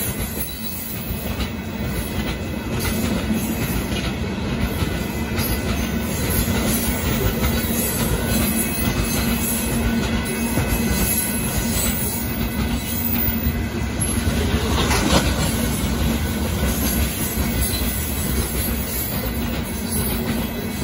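Loaded freight train of rock-carrying hopper cars rolling steadily past: a continuous rumble and clatter of wheels on the rails, with a brief louder swell about two-thirds of the way through.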